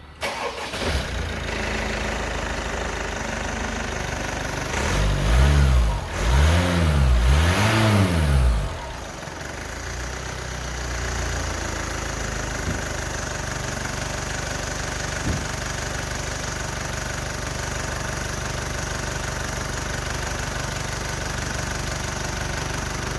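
A 2016 Mitsubishi Outlander's four-cylinder diesel engine starting on its first run after an exhaust manifold replacement. It idles, is revved three times about five to nine seconds in, then settles back to a steady idle with a slight rattle.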